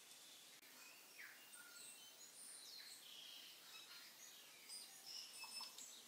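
Faint, scattered high chirps and short whistles like small birds calling, over a quiet room tone.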